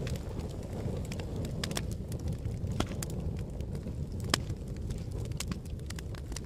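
A wood fire burning with a steady low rumble and irregular sharp crackles and pops, the loudest pop about four seconds in.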